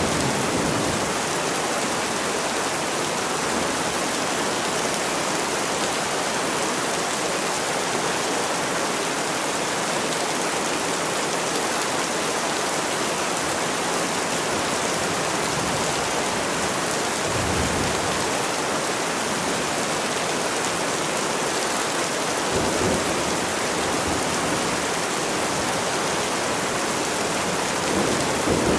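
Steady rain falling, with brief low rumbles of thunder about two-thirds of the way through and again near the end.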